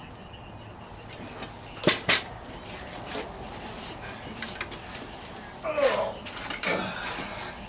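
Metal-on-metal knocks and clanks as parts of an old Model T manifold assembly are worked apart: two sharp knocks about two seconds in, then a cluster of clanks with a short metallic scrape near the end.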